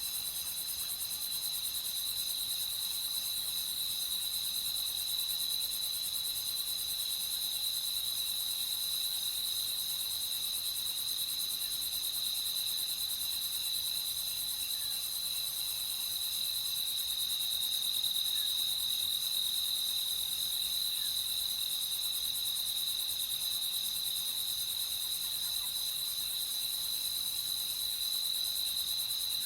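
Night insect chorus of crickets chirring continuously, one steady high trill with more trilling higher up, unbroken.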